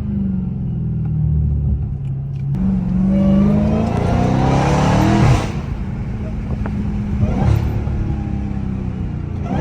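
Dodge Charger Hellcat Redeye's supercharged 6.2-litre HEMI V8, exhaust with the mid mufflers deleted, at a steady cruise, then accelerating hard from about two and a half seconds in. The engine note rises for about three seconds and cuts off sharply as the throttle is lifted, then settles back to a steady drone.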